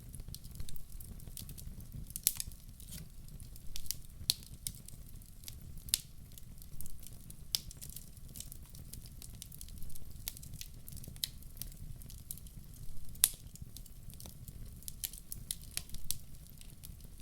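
Wood fire in a fireplace crackling: irregular sharp pops and snaps over a low steady rumble of the flames, with a louder pop about 2 seconds in and another about 13 seconds in.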